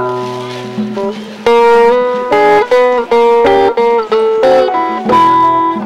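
Live blues band playing an instrumental intro, a guitar picking out a melody of single sustained and bending notes over a bass line.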